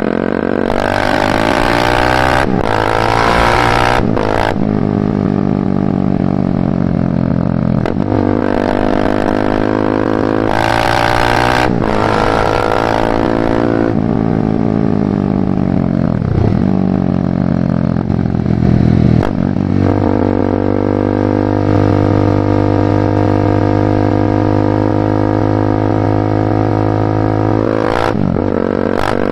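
BMW G310R's single-cylinder engine through a full Mivv aftermarket exhaust, riding: the pitch climbs through the gears and drops back at each shift, eases off once, then holds steady at cruising speed. Wind rushes across the microphone in short gusts.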